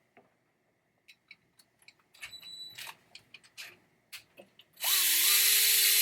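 Electric screwdriver whirring for about a second and a half near the end, backing a screw out of a pinball trap door mechanism. Before it come small clicks and taps of screws and parts being handled.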